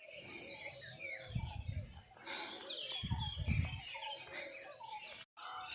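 Many small birds chirping and twittering together in morning birdsong, with two short low-pitched noises about one and a half and three seconds in.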